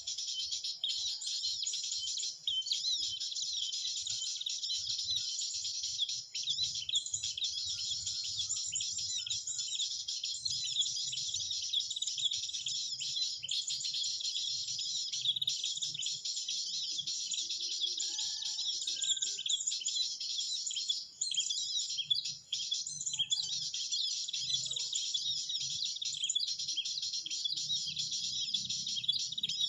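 Dense, unbroken chorus of high, fast chirping bird calls, with faint low rumbling underneath.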